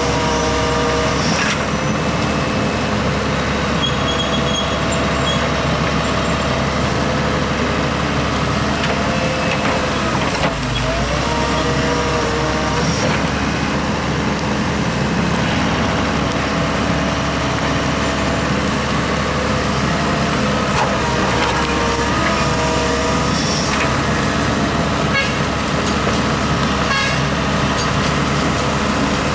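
Diesel excavator and dump truck engines running continuously, with pitched tones that rise and fall now and then.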